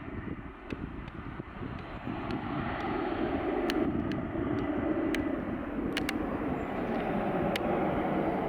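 Embraer E190 jet's engines at take-off power, a steady low rumble with a hiss that swells a little about three seconds in. A few faint clicks sound over it.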